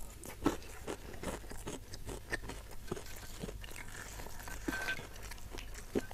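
Close-miked chewing and soft crunching of a mouthful of rice, spicy beef and puffed crackers, with many small wet clicks. Fingers pick crackers off the plate with light scraping and rustling.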